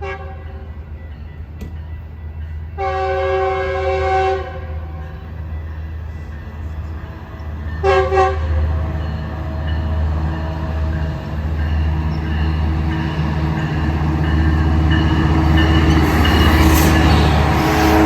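Metrolink commuter train's horn sounding one long blast about three seconds in and a short double blast near eight seconds, then the locomotive's rumble and wheel noise grow steadily louder as the train arrives, loudest near the end.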